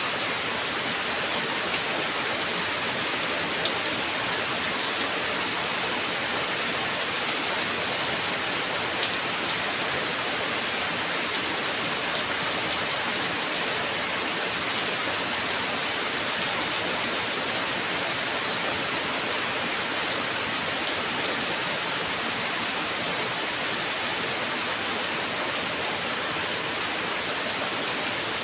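Heavy rain falling steadily, an even dense hiss with a few brief drop clicks.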